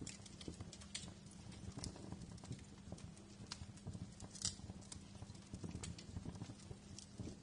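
Wood fire crackling in a fireplace: irregular pops and snaps over a low steady rumble, with one louder snap about four and a half seconds in.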